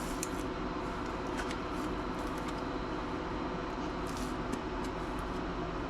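Steady background hum with a few light, scattered clicks and taps from handling laptop parts.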